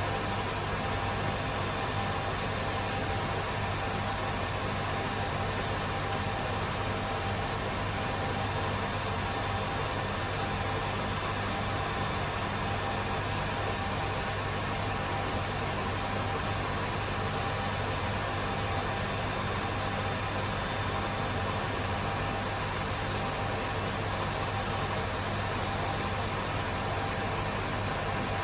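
Two Hotpoint Aquarius washing machines, a WMA37 and a WMA48, spinning together at speed: a steady whine and rush from the motors and drums that holds level throughout.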